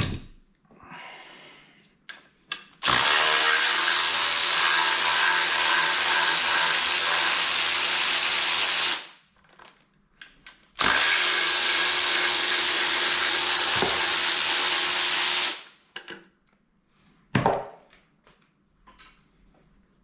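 Handheld power tool motor running in two long steady bursts, about six and then five seconds, with a few short knocks between and after them.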